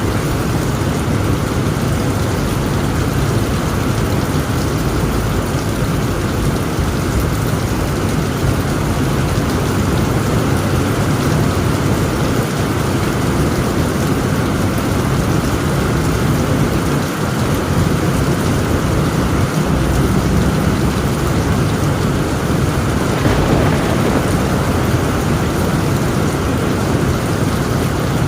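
Heavy rain beating steadily on a tent roof, with a low, continuous thunder rumble underneath. The downpour surges briefly near the end.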